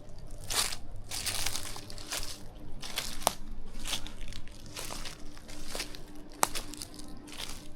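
Footsteps crunching over rough, overgrown ground in an uneven walking rhythm. Two sharper cracks come about three seconds in and again near the end.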